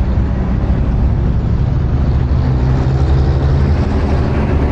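Traffic noise dominated by large trucks' engines running close by in slow traffic: a steady, really noisy low rumble, picked up by a lavalier mic inside a motorcycle helmet.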